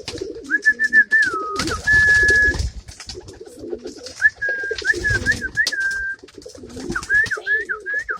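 Pigeons cooing throughout, with three phrases of high, wavering whistling over them and two rushes of noise, the louder about two seconds in.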